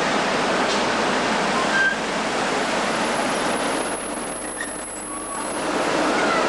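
Class 90 electric locomotive and its train rolling slowly into the platform: a steady rushing noise with a few brief brake squeals as it slows.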